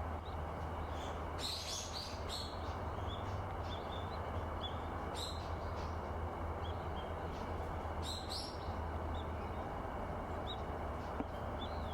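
Small birds calling in short, high chirps, scattered through the clip with louder bursts about one and a half, five and eight seconds in, over a steady low rumble of background noise.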